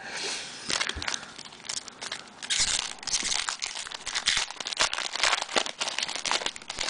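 Crinkling and tearing of a trading-card pack wrapper as a pack is opened and handled, in quick irregular crackles.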